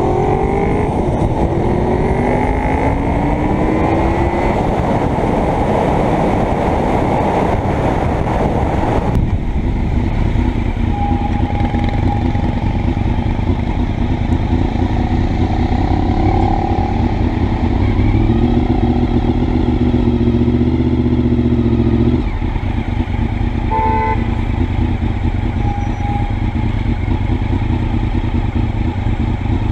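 Honda VFR's V4 engine and wind rush heard from a helmet camera while riding. It pulls through the gears with heavy wind noise, the wind drops off suddenly about a third of the way in, and the engine then runs at a steadier, lower speed until the throttle closes about two-thirds of the way through.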